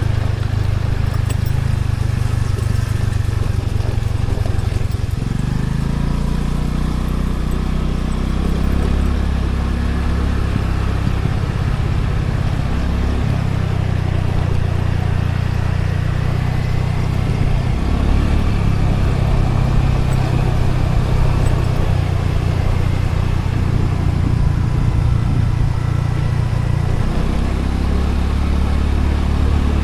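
Scooter's small engine running during a ride, a steady low drone whose pitch shifts a few times, with road and ambient noise around it.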